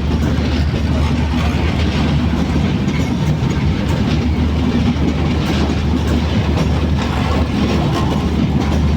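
Passenger train running along the track: a steady loud rumble with the clatter of wheels over rail joints.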